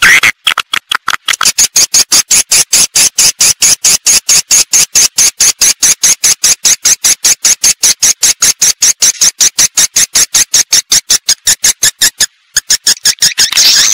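Swiftlet lure-call recording, played to draw swiftlets into a nesting house: rapid high-pitched chirps repeated about four or five times a second, with a brief break near the end.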